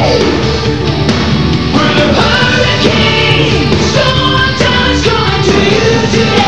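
Cartoon theme song: loud rock music with a sung melody over a steady bass line.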